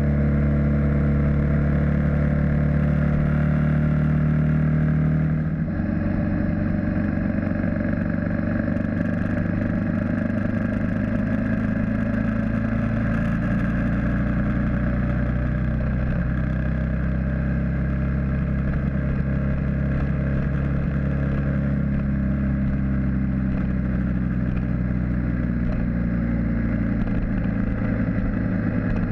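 BMW G650GS motorcycle's single-cylinder engine running steadily at highway cruising speed, picked up by a camera mounted on the bike. The drone changes to a lower pitch about five seconds in, then holds steady.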